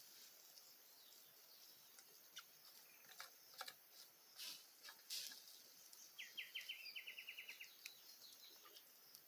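Quiet outdoor background with a bird calling a fast run of short, evenly repeated notes about six seconds in, and a few faint scattered clicks or crackles earlier.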